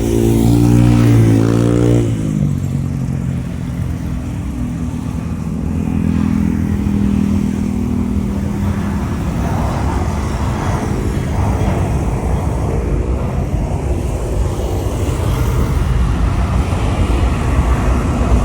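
Road traffic passing close by: a motor vehicle's engine sounds loud and its pitch drops away in the first two seconds, followed by a steady traffic rumble.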